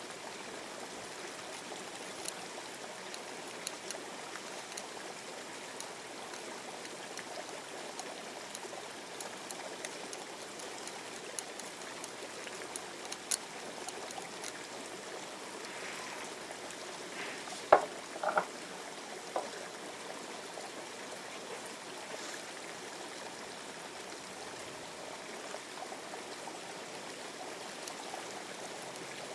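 Small river's water running steadily, with scattered light clicks and a short cluster of sharp knocks about eighteen seconds in.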